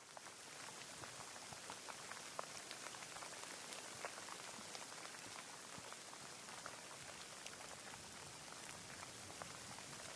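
Steady rain falling, an even hiss with many separate close drops ticking through it. It comes up in level over the first second, then holds steady.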